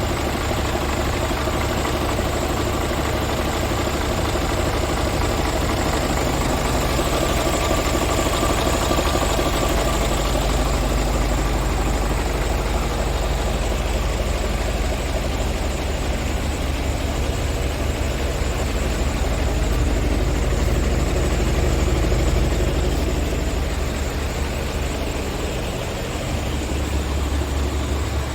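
Scania R450 truck's 13-litre inline-six diesel engine idling steadily; its low hum shifts a little near the end.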